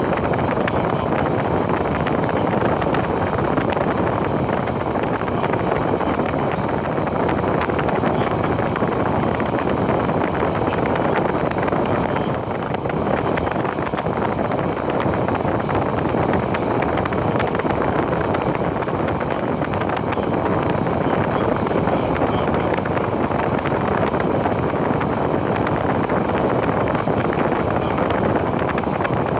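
Train carriage running along the track: a steady rumble of wheel and running noise with wind rushing over the microphone.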